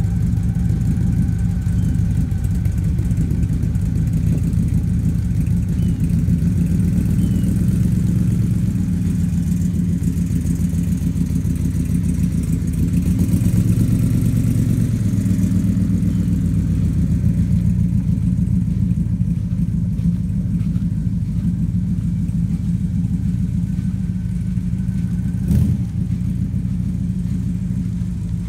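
1979 Chevrolet Corvette's 350 small-block V8 running while the car is driven slowly, newly running again after sitting for 25 years; the engine rises briefly about halfway through. A single sharp knock sounds near the end.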